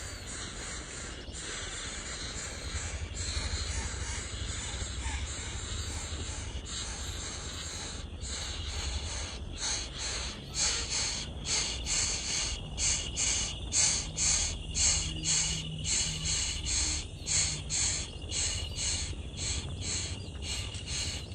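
A steady high hiss of insects, then from about halfway a bird calling over and over, about three harsh calls every two seconds.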